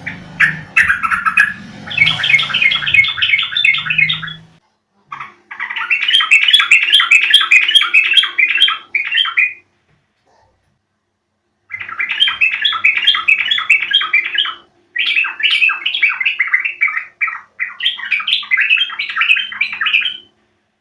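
Yellow-vented bulbul (trucuk) song: fast, bubbling chattering phrases in five bouts of about two to four seconds each, with a longer pause about halfway through.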